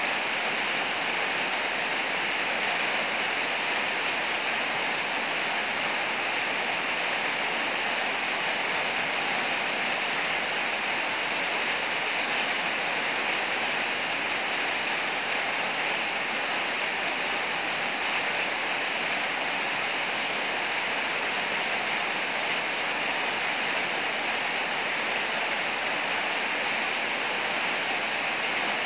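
Heavy rain falling steadily, a dense, even hiss without let-up; no thunder in this stretch.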